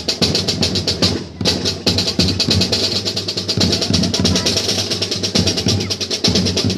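Marching band percussion playing a fast, even run of drum strokes over low bass drums, breaking off briefly about a second in and then starting again.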